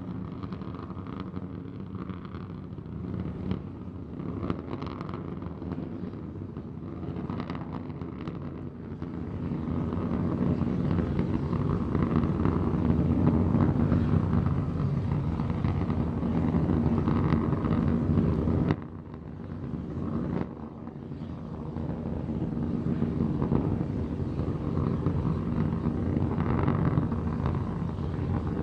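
Rocket engine roar from Starship SN15's three Raptor engines burning during ascent, heard as a steady rumbling noise with wind on the microphone. It grows louder about a third of the way in and drops out abruptly for a second or two just past the middle before returning.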